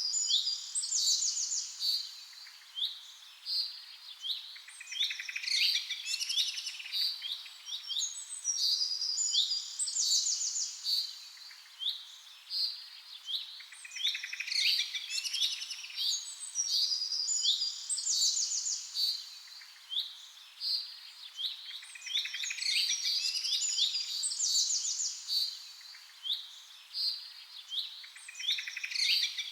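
Songbirds chirping, several at once: rapid short high chirps and trills overlapping in a busy chorus that swells and eases every few seconds.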